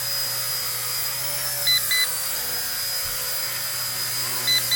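Small electric RC helicopter's motor and rotor running with a steady whine, while a low-battery alarm gives a double beep about every three seconds: the battery is dead.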